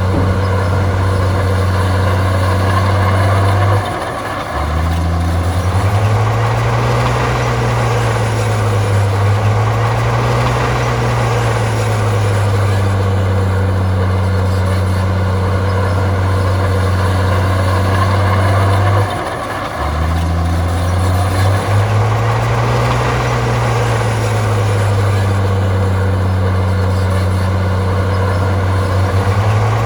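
Heavy diesel engine of earthmoving machinery running hard under load. Its note drops briefly about four seconds in and again about nineteen seconds in, then comes back rising and wavering as the load changes.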